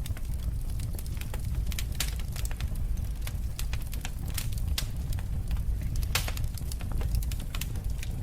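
Wood fire in a fireplace crackling: irregular sharp pops and snaps over a steady low rumble of the flames, with a louder pop about six seconds in.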